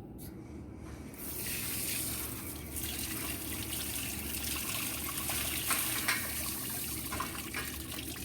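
Water running from a tap into a sink, starting about a second in, as barbecue tools are rinsed, with a few light knocks.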